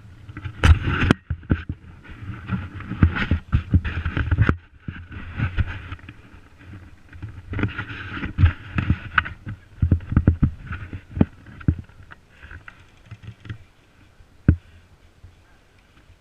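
Irregular knocks and rustling close to a body-worn GoPro's microphone, from the wearer moving and gear or clothing brushing against the camera. They come in loud clusters and thin out to a few faint knocks near the end.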